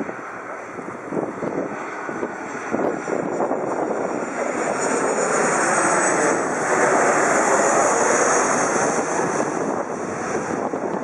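Jet airliner passing low overhead: its engine noise builds over several seconds, peaks about two-thirds of the way through with a high whine drifting slightly down in pitch, then eases off.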